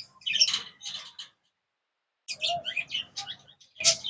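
Pet budgerigars chirping in short high calls, in two spells with a pause of about a second between them.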